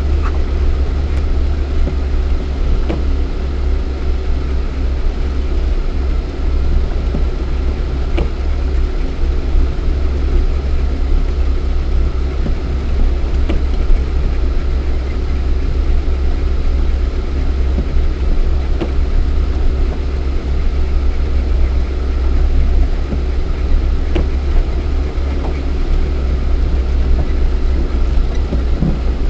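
Lada Niva 1.7i's four-cylinder engine and drivetrain in a steady low rumble as the car drives, heard from inside the cabin, with a few faint knocks along the way.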